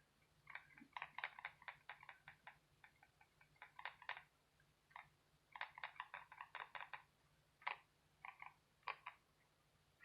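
Faint, irregular clusters of quick light ticks and taps from a paintbrush dabbing paint onto a canvas, several strokes a second in bursts with short pauses between.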